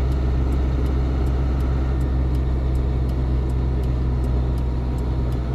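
Steady engine and road drone heard inside the cab of a GAZon Next truck while it drives, with a faint high ticking about three times a second.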